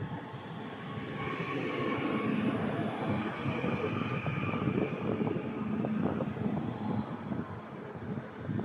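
Northern Class 331 electric multiple unit running past along the platform: a rumble of wheels on rail with scattered clicks and a faint steady whine, louder from about a second in.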